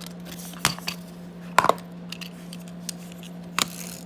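A few sharp clicks and taps of the packaging being opened and handled to take out a small plastic toy car, the loudest about halfway through with a brief ring. A steady low hum runs underneath.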